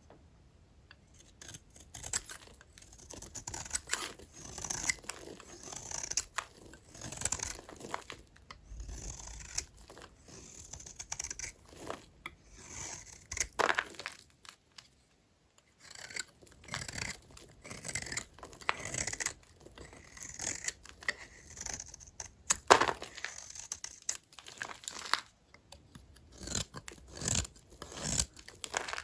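Small dry vintage hotel soap bars being cut, a run of scraping, crunchy strokes about a second apart, with a short pause about halfway through and one sharp crack, the loudest sound, about three-quarters of the way in.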